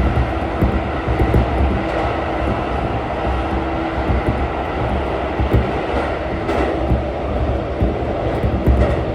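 Steady running noise inside a moving train car: a continuous rumble of wheels on the rails with a faint steady hum.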